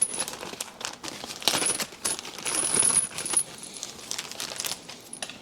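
New steel bolts clinking and rattling against each other and against metal, a string of small sharp clicks with a light metallic ring, as the intake manifold bolts are handled and dropped into their holes.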